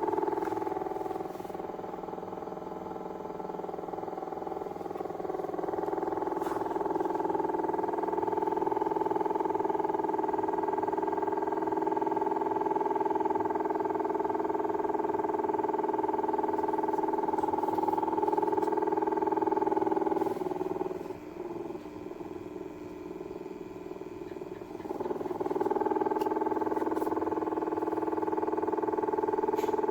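Small battery-powered DC fan motors in a cardboard air-conditioner model running with a steady whine. The sound drops and wavers twice, briefly about a second and a half in and for about five seconds starting about twenty seconds in, then returns to full.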